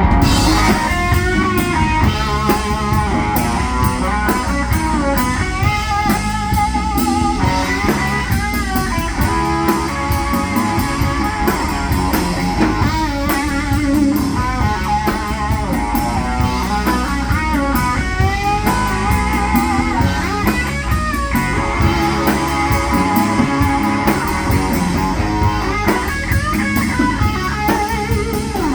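Rock band playing a bluesy instrumental passage: electric guitars with a wavering lead over a drum kit.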